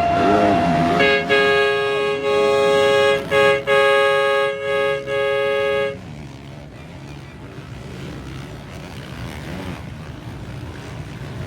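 Horn blasts: a single held note, then a louder two-note horn chord held with a few short breaks, which stops about six seconds in. After that, a steadier background rumble.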